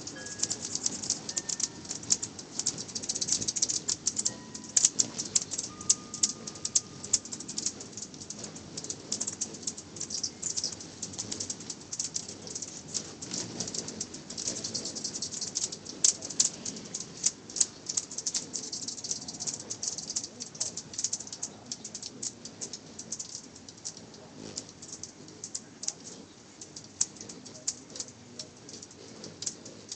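Hummingbirds chittering: dense, rapid high-pitched ticking chips that come in louder and softer spells, with a few short whistled notes in the first several seconds.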